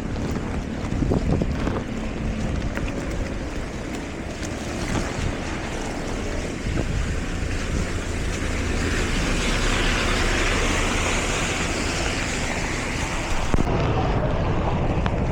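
A vehicle moving through floodwater: a steady low engine rumble mixed with rushing, splashing water, with wind buffeting the microphone. The water hiss swells about halfway through.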